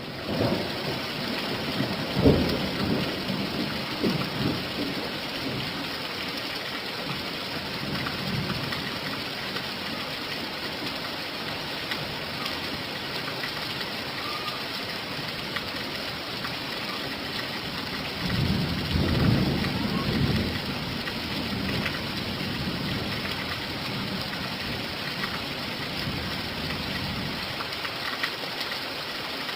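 Steady rain pouring down, with rumbles of thunder: a sharp one about two seconds in, smaller ones after it, and a longer rolling rumble about two-thirds of the way through.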